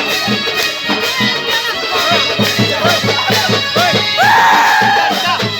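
A flock of lovebirds chattering and screeching together in many quick overlapping chirps, with one long drawn-out call about four seconds in.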